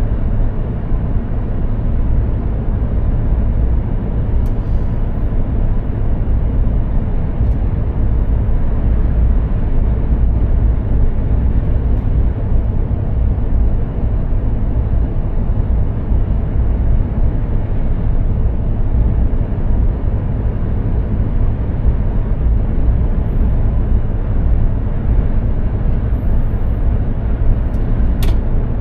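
Mercedes-Benz Actros 2763 truck driving at a steady pace: a continuous low drone of engine and road noise that holds level throughout. There is a single brief click near the end.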